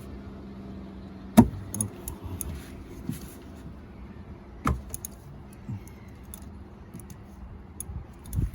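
Metal tools clinking and rattling, with two sharp knocks about a second and a half in and near the middle, as an oil filter cap wrench is handled and fitted over a low steady hum.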